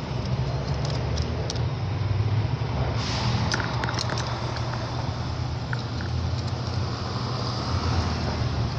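A steady low mechanical hum, like an electric motor running, with scattered light clicks and taps over it.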